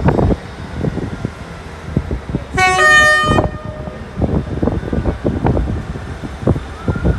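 Train horn giving one short toot of just under a second, about two and a half seconds in, over a steady low rumble with repeated low thuds.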